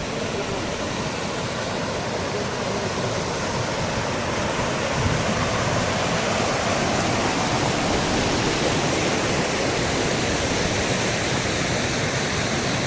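Waterfall splashing down into its pool, a steady dense rush of falling water that grows a little louder a few seconds in.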